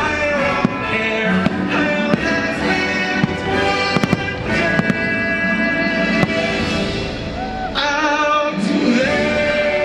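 Orchestral show music playing loudly over the park's speakers, punctuated by several sharp firework bursts.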